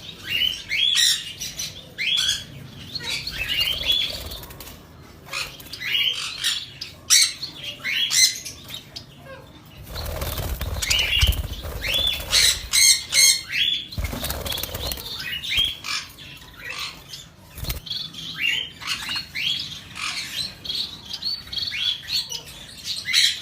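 A flock of budgerigars chattering with many short, quick chirps, with bursts of wing flapping about ten and fourteen seconds in.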